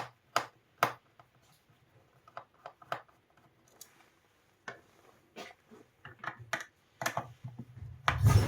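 A run of sharp clicks and taps, a few in quick succession at first, then sparser and fainter, with a louder patch of knocking and rustle near the end.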